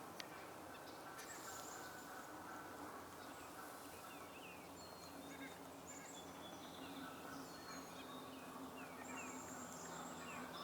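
Faint bird calls: many short, high chirps and notes from several small woodland birds, over a low steady hum.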